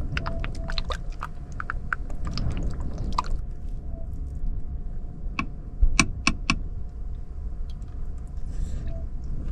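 Small clicks and taps of cooking and eating things being handled, many in the first three seconds and three sharp, louder clicks about six seconds in, over a steady low rumble of wind and rain on a small car, with a faint steady hum.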